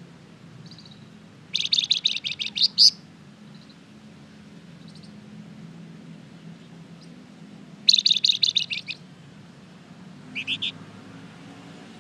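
A flamboyan songbird singing two loud, fast trills of rapidly repeated high notes, the first ending on a higher note, then a short three-note phrase near the end, with a few faint single chirps between, over a steady low hum.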